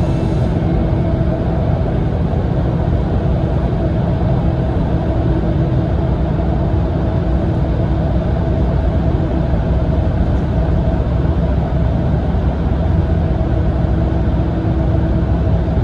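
Steady in-cabin running noise of a Mitsubishi Fuso Aero Ace coach at cruising speed through a road tunnel: a loud low rumble of diesel engine and tyres with a faint steady drivetrain hum.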